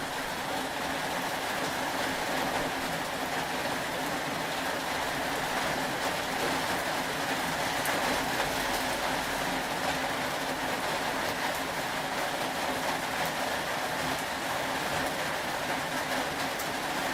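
Steady rain: an even hiss with a few faint ticks of drops.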